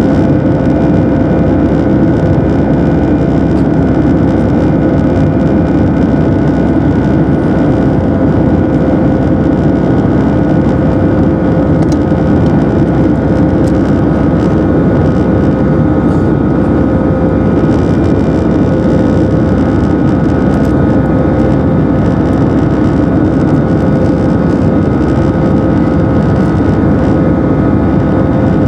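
Cabin noise of an Airbus A319 with its jet engines at high takeoff thrust: a loud, steady rush with several steady whining tones on top, unchanging throughout.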